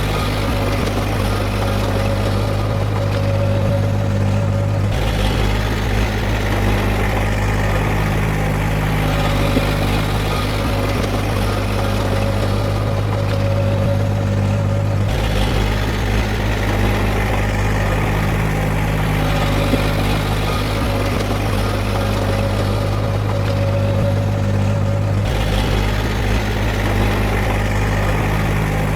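Heavy diesel engine of an earthmoving machine running steadily at a low, even drone. Its tone changes abruptly about every ten seconds.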